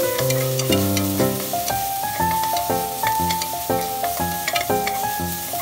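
Onion and garlic sizzling in hot oil in a pot while being stirred with a spatula, with small scraping clicks throughout. A background melody of sustained notes plays over it.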